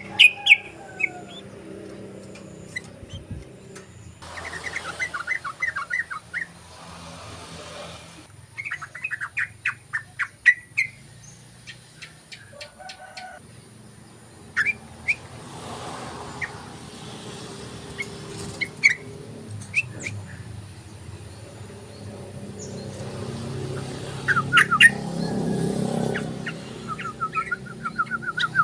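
Yellow-vented bulbul (trucukan) singing in several bursts of rapid chattering notes, over a low steady rumble.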